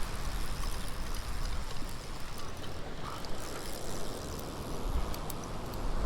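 Ocean surf washing on the beach, with wind buffeting the microphone in low rumbling gusts that grow stronger near the end.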